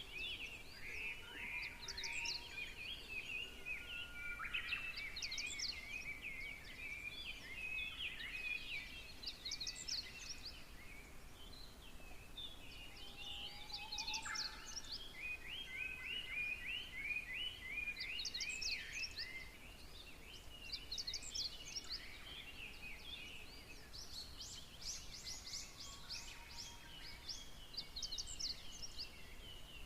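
Songbirds singing and chirping without pause, with quick trilled phrases that recur every couple of seconds over a steady chorus of chirps.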